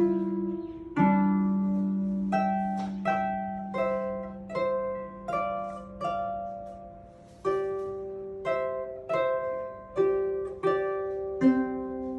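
Concert harp playing a simple beginner's piece: a melody of single plucked notes, roughly one or two a second, each struck sharply and left to ring away, over lower bass notes that sustain beneath.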